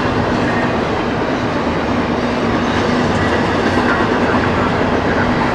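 Double-stack intermodal well cars of a freight train rolling past, a steady noise of steel wheels running on the rails.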